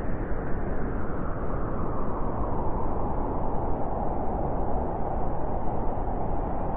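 Winter wind blowing steadily, a low rushing that settles a little deeper about halfway through.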